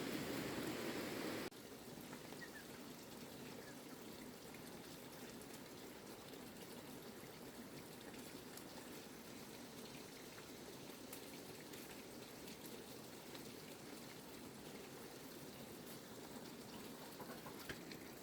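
Steady rain falling, with scattered single drops. It is louder for the first second and a half, then drops suddenly to a softer steady level.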